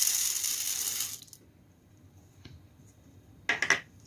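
Fabric conditioner being poured into a washing machine's dispenser drawer, a steady liquid pour that stops about a second in. A faint click and then a short clatter follow near the end.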